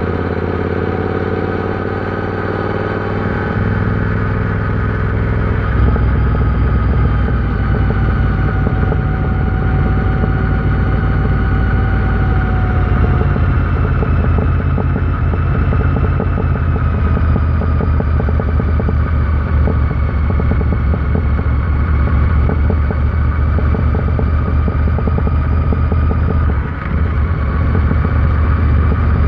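Royal Enfield Interceptor 650's parallel-twin engine running under way, its note getting stronger about six seconds in. There is a brief dip in the sound near the end.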